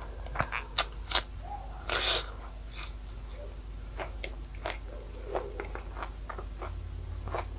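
Close-miked chewing of a mouthful of pork and rice: wet smacks and crunches, with a few sharp loud ones in the first two seconds and softer ones after.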